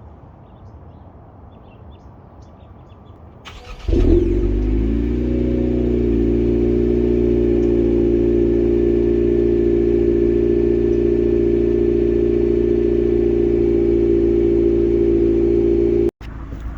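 11th-gen Honda Civic Si's 1.5-litre turbocharged four-cylinder, through a Thermal R&D 3-inch downpipe-back exhaust, is cranked and starts about four seconds in, flares briefly, then settles into a steady idle. The sound cuts off abruptly near the end.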